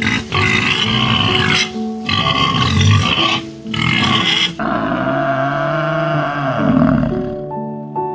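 An animal's harsh calls, three in a row with short breaks between them, then one longer call that stops about seven and a half seconds in, over gentle background music.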